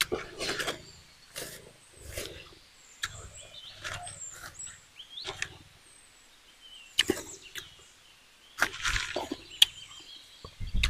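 Close-up eating sounds of a person chewing a mouthful of red ants and raw chilli, with wet smacking mouth noises in irregular bursts.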